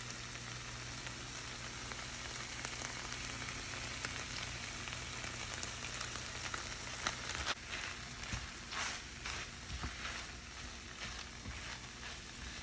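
Food frying in a pan: a steady sizzling hiss with scattered small pops and crackles.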